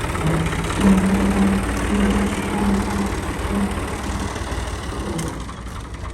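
Tractor diesel engine running steadily with a low rumble, and a droning tone that comes and goes over the engine for most of the stretch.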